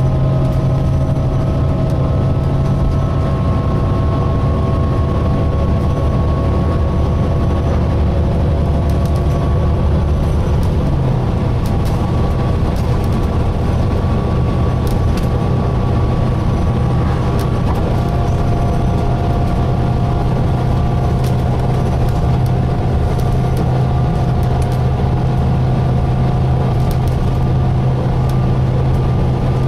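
Volvo B9TL double-decker bus heard from inside while under way: a steady low drone with several thin whining tones above it that slowly rise in pitch, and scattered light clicks and rattles.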